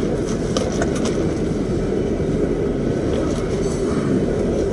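Empty crude-oil tank cars of a freight train rolling past with a steady rumble, with a few faint clicks in the first second.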